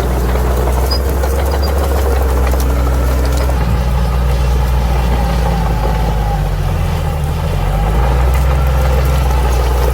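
Bulldozer's diesel engine running steadily. Its pitch dips briefly about seven seconds in, and it runs a little louder from about eight seconds.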